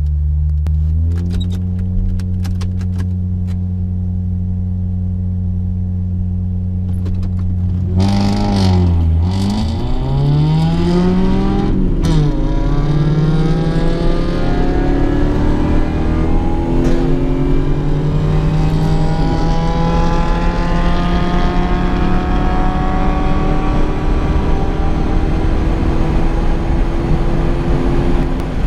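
A car engine at a drag-race launch. It holds at raised revs, then launches about eight seconds in and accelerates hard, with the pitch dipping and climbing again at each gear change, then one long climb near the end.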